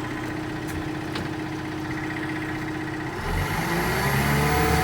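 The four-cylinder Deutz diesel engine of a Venieri 10.33C backhoe loader running steadily, then rising in speed about three seconds in as the snowblower's fan speed is dialed up.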